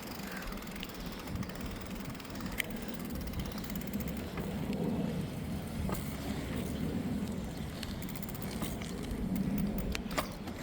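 A bicycle being ridden: the tyres roll with a steady, uneven rumble that swells and eases, and a few sharp clicks or rattles come from the bike now and then.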